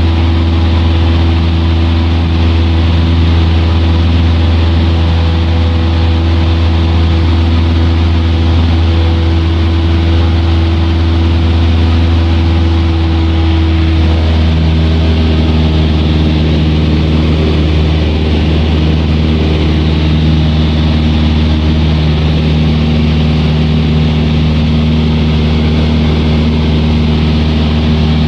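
Aircraft engine droning steadily in flight, a strong low hum with several steady tones above it; the engine note shifts slightly about halfway through.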